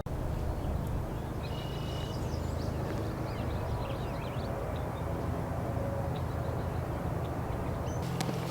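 Steady outdoor rushing noise with a few short bird chirps over it, about one to four seconds in. A quick run of clicking steps starts near the end.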